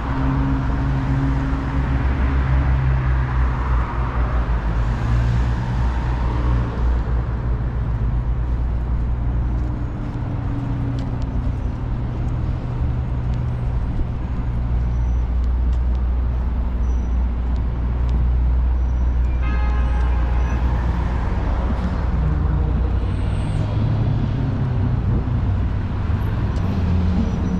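City street traffic with a vehicle engine running steadily close by, a low continuous rumble. About twenty seconds in there is a brief high-pitched squeal.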